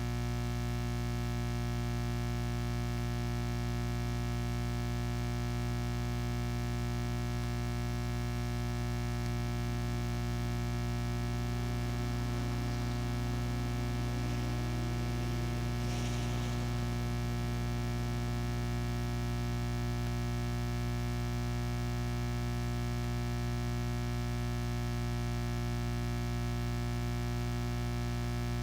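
Steady electrical mains hum and buzz with many overtones, unchanging throughout, with a faint brief disturbance about halfway through.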